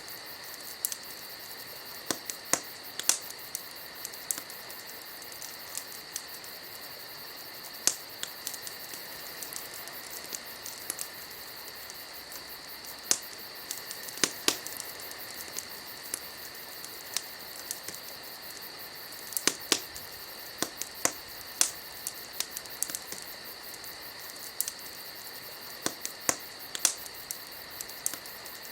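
Campfire burning: wood crackling with irregular sharp pops over a steady hiss.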